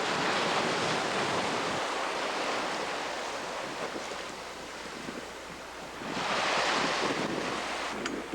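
Sea water rushing past a sailing yacht under way, with wind buffeting the microphone. The rush swells at the start and again about six seconds in.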